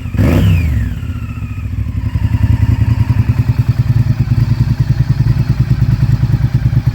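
Honda VTR 1000's 90-degree V-twin through a Yoshimura exhaust: one quick throttle blip at the start that falls back within a second or two, then a lumpy, pulsing idle.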